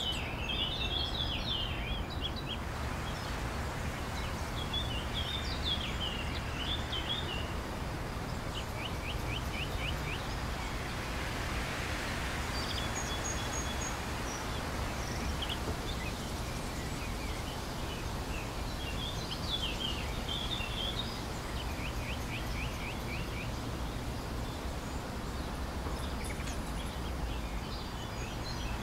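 Outdoor ambience of small songbirds chirping in short phrases every few seconds, with a few rapid ticking trills, over a steady low rumble.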